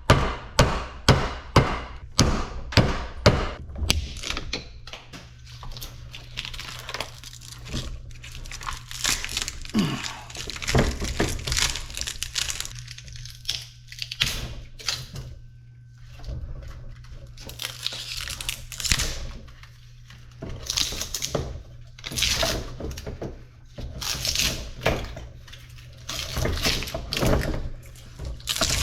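A quick run of hard knocks on scrap electric-motor parts, about three a second for the first four seconds or so. After that come irregular knocks, clicks, scraping and crinkling as the motor parts and copper windings are worked by hand.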